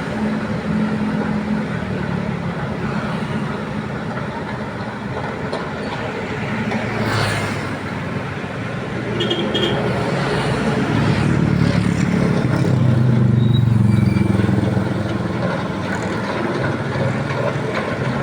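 Excavator's diesel engine running under load, working harder and louder for a few seconds past the middle, with a brief knock partway through.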